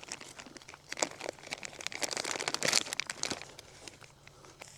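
Packaging of raw pork chops crinkling and tearing as it is opened by hand, a dense run of crackles that thins out near the end.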